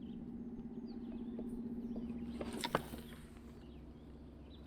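Spinning reel being cranked: a steady, fine-grained whirr that swells and then eases, with one sharp click about two and a half seconds in. Birds chirp faintly.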